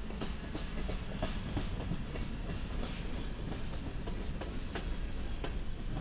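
Covered hopper cars of a freight train rolling past: a steady rumble of steel wheels on the rails, broken by frequent irregular clicks and clacks.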